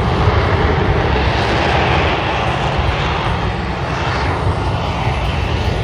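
F-35B jet in short takeoff/vertical landing mode, its engine and lift fan running as it sets up for a rolling vertical landing: loud, steady jet noise with a deep rumble.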